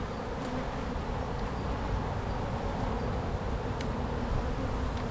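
Honey bees buzzing steadily in a mass over an open hive during a frame inspection, with a couple of faint clicks.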